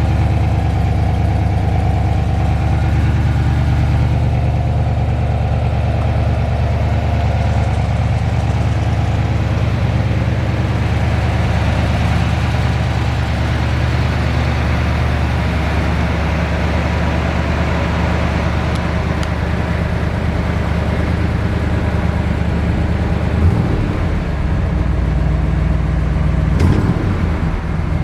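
The 454 cubic-inch LS6 big-block V8 of a 1970 Chevelle SS, with its solid-lifter camshaft, running steadily with a low, even note. It changes briefly twice near the end.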